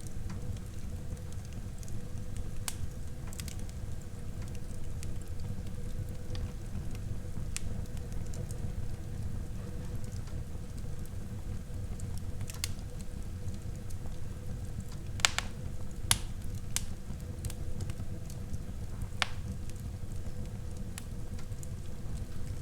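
Wood fire burning in a fireplace: a steady low rumble of flames with scattered sharp crackles and pops, a few louder snaps about two-thirds of the way through.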